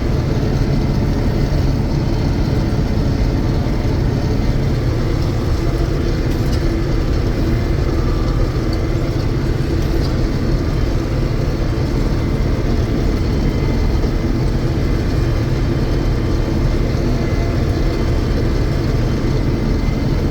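1982 John Deere 6620 Turbo combine running steadily under load while harvesting soybeans: a constant, even engine and machinery drone with a few steady hum tones and no changes in speed.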